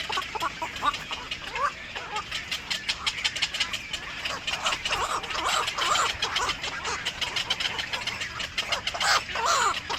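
Birds calling: a dense, rapid chatter of high calls throughout, with louder calls around the middle and a few short calls falling in pitch near the end.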